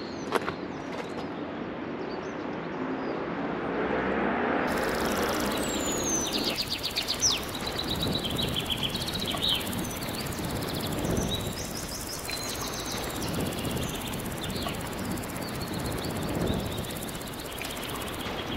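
Small birds chirping and trilling against a steady outdoor rush of background noise; the birdsong starts about five seconds in and carries on in short calls.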